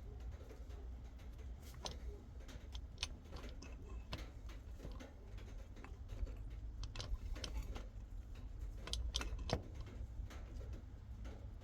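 Faint, scattered clicks and clinks of small steel gearbox parts being handled and taken apart, over a low steady hum.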